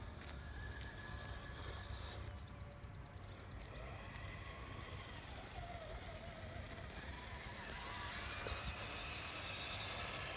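Faint whine of a Traxxas TRX-4 RC crawler's electric motor and drivetrain, its pitch wavering up and down with the throttle as it creeps over rocks, over a steady background hiss; it grows a little louder near the end.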